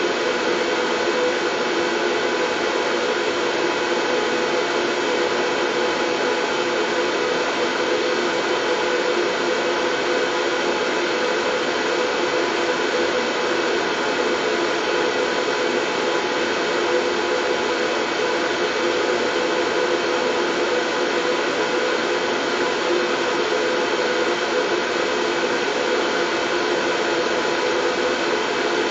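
Steady, unchanging white noise with a faint even hum running through it.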